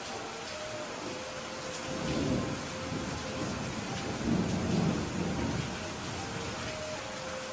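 Steady rain falling with a soft roll of distant thunder. The rumble swells about two seconds in and again more strongly from about four to five and a half seconds.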